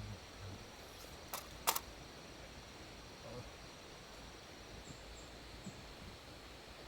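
Faint, steady high chirring of insects, with two sharp clicks about a second and a half in.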